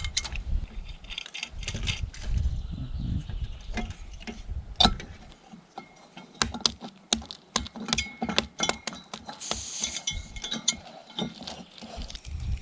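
A rapid, irregular run of small clicks and taps with a few light ringing clinks, from objects being handled. A low rumble runs under the first five seconds.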